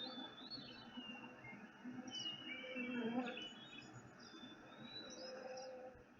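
Faint songbirds chirping and singing, several short whistled phrases overlapping one another.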